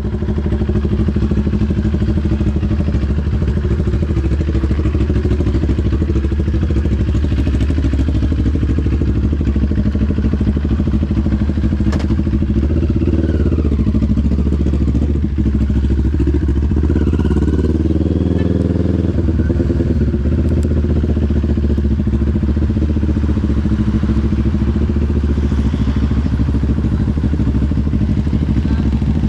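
CFMoto 400NK's parallel-twin engine running, heard from a helmet-mounted camera, its pitch rising and falling for several seconds around the middle, with a single sharp click shortly before.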